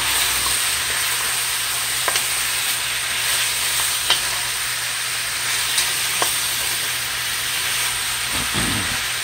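Chicken pieces and chopped vegetables sizzling in a hot metal pot as they brown, stirred with a spoon, with a few light clicks of the spoon against the pot.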